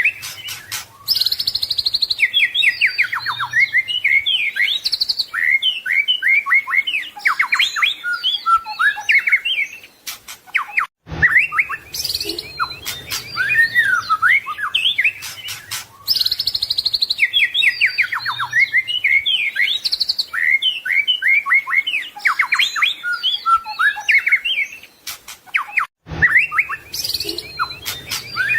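White-rumped shama (murai batu) singing a fast, varied song of whistles, trills and rattling phrases, packed with mimicked phrases. The same passage repeats about every 15 seconds with a brief gap between repeats, as in a looped recording.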